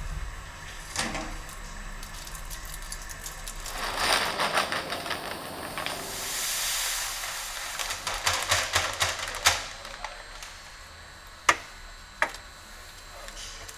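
Brewing and fermentation lab equipment at work: rapid crackling and clicking, a smooth hiss about six seconds in, and a few sharp single clinks near the end.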